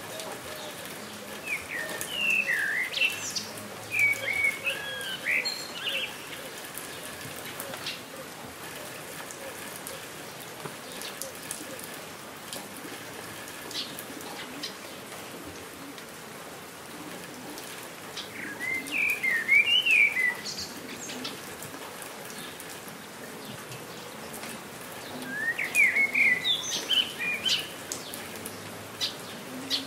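Steady rain falling, with scattered drops ticking close by. A songbird sings three bursts of quick, high chirps: near the start, past the middle and near the end.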